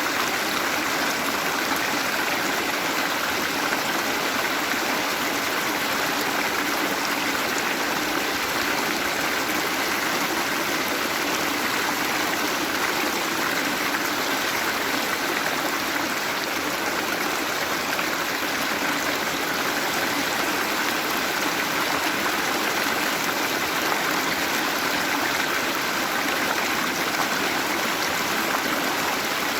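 Waterfall: water falling and rushing steadily with no break, a full even splashing hiss.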